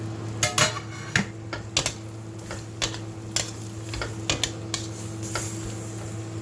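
A cooking utensil stirring prawns and vegetables in a pan, knocking and scraping against the pan in irregular clinks, with one longer scrape about half a second in, over a steady low hum.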